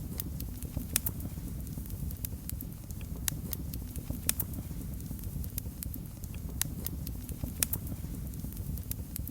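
Wood fire burning in a fireplace: a steady low rumble with irregular sharp crackles and pops, a few of them loud.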